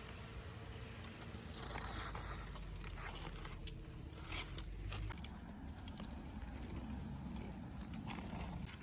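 Faint sounds of people eating sandwiches: bites and chewing, with a few small crunches and clicks.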